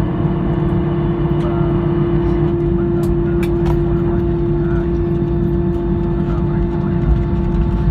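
Airliner cabin noise just after landing: a steady drone of the engines and airflow with a constant hum, as the plane rolls along the runway or taxis. A few light clicks sound about three seconds in.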